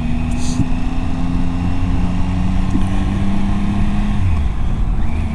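Motorcycle engine pulling along under the rider, its note climbing slowly and then changing about four seconds in, as at a gear change, over a steady low rumble.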